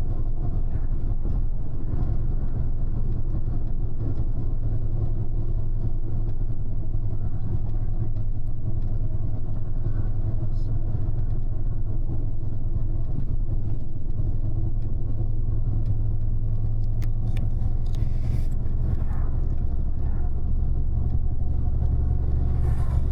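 Steady low rumble of a double-decker bus's engine and road noise, heard from inside the upper deck, with a few light clicks near the end.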